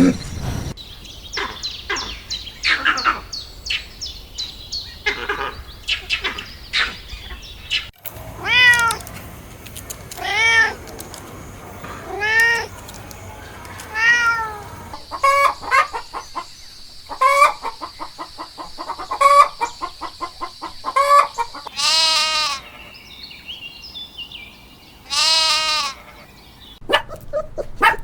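Cats meowing repeatedly: drawn-out meows that rise and fall in pitch, one every couple of seconds, between runs of short rapid chirping calls.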